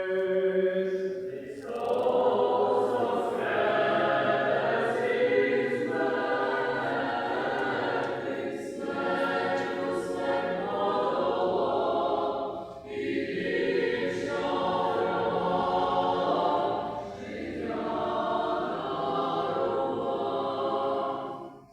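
Church choir singing unaccompanied liturgical chant in long, sustained phrases with brief pauses between them.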